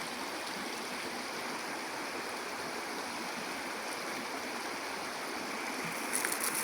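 Stream water flowing and splashing over rocks in a steady rush, with a few light clicks near the end.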